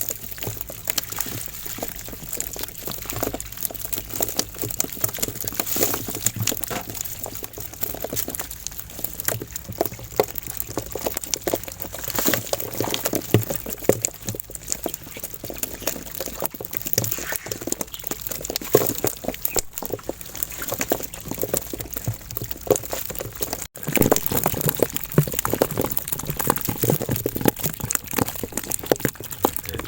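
Water splashing and dripping as a fishing net is hauled up out of the river, with irregular small splashes and knocks throughout.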